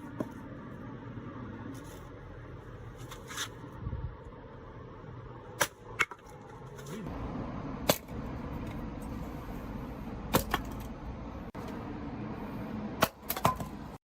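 Restored axe chopping and splitting firewood: about six sharp, hard blows at uneven intervals, two close together in the middle and a quick pair near the end.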